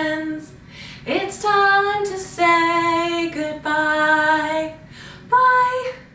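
A woman singing a children's goodbye song unaccompanied, in a series of held, sustained notes; the last note ends near the end.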